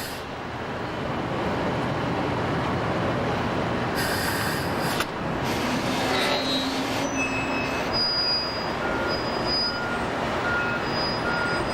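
Heavy construction machinery running with a steady rumble, with a short hiss about four seconds in. From about seven seconds in a backup alarm beeps repeatedly, a little faster than once a second.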